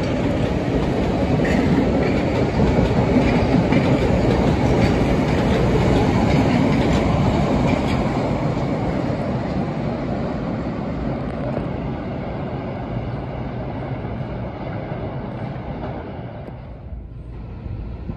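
MBTA train running past on the track, loudest a few seconds in and fading as it moves away.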